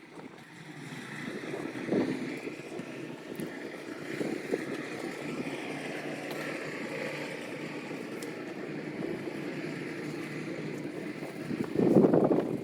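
Steady outdoor background noise with wind buffeting the microphone, a short knock about two seconds in and a louder burst near the end.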